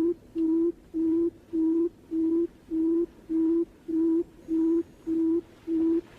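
Barred buttonquail call, a steady series of short low hoots about twice a second, all at the same pitch, played back as a lure call.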